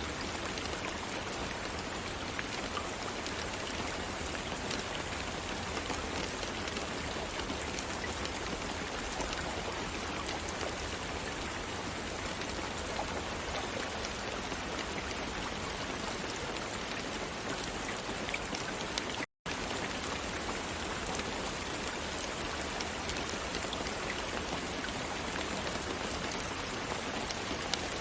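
Steady rain falling, a dense even patter of raindrops with faint scattered ticks. It cuts out to silence for a moment about two-thirds of the way through.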